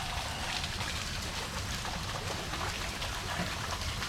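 Steady hiss of falling water, with many faint ticks of drops.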